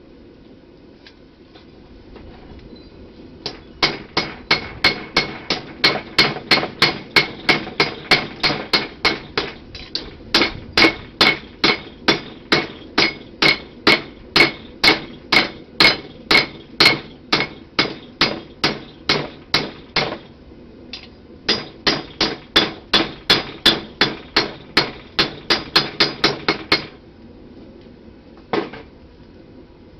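Blacksmith's hammer striking a knife blade on an anvil in a steady run of ringing blows, about two to three a second, while forging the blade's bevels. The blows stop briefly about two-thirds of the way through, start again, then end with a single blow near the end.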